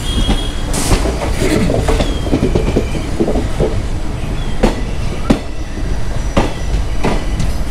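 Express passenger train running slowly into a station, heard from inside a coach: a steady rumble with occasional sharp clacks of the wheels over rail joints and points, and a brief high wheel squeal in the first couple of seconds.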